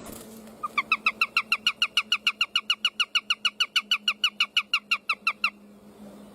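Bird of prey calling a rapid run of short, shrill, downward-sliding notes, about six a second, which stops about a second before the end.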